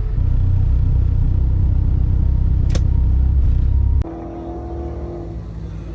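Car engine running with a loud, low rumble. About four seconds in, the sound drops suddenly to a quieter engine hum with a steady tone.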